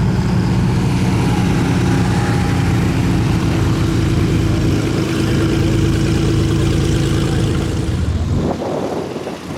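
Light aircraft's piston engine and propeller running steadily with a low drone; the sound dips briefly near the end.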